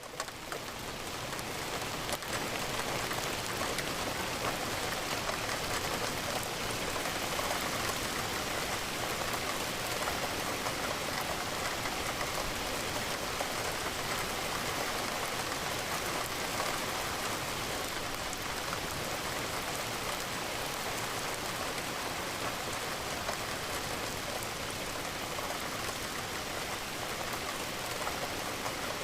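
Steady rain falling and pattering against a window pane, a constant even hiss that dips briefly at the very start and then settles.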